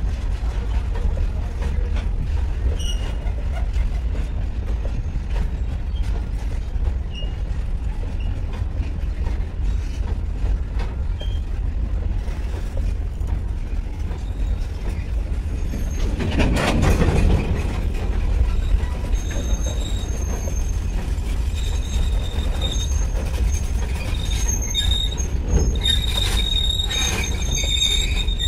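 Long freight train of loaded open-top wagons rolling past: a steady low rumble of wheels on rail, swelling louder for a moment a little past halfway, with thin high wheel squeals coming and going near the end.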